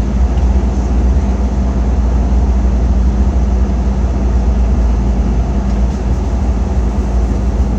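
Steady cabin noise inside an Embraer E-Jet airliner: engine and airflow noise with a continuous low hum.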